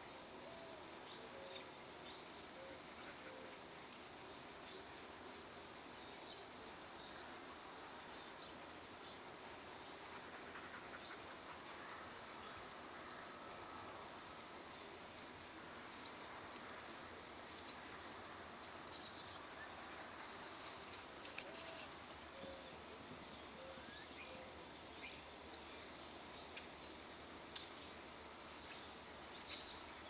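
Small birds chirping repeatedly: short, high-pitched chirps that swoop downward, scattered throughout and coming thicker and louder near the end.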